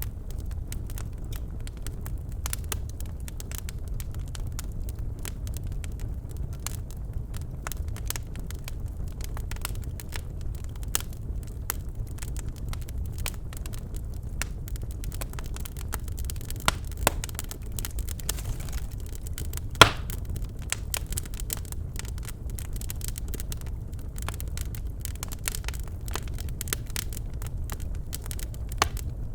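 Birch logs burning in a fireplace: a steady low rumble of flame with frequent irregular crackles and snaps, and one louder pop about two-thirds of the way through.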